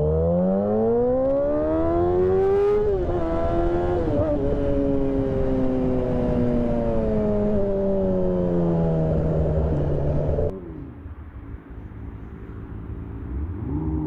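Yamaha R6 inline-four with a full stainless Black Widow exhaust, SC Project muffler and no catalytic converter, revving up with a rising pitch for about three seconds. The pitch dips briefly, then falls steadily as the bike slows. About ten seconds in, the loud exhaust note cuts off suddenly, leaving a much quieter low sound until the revs begin to rise again near the end.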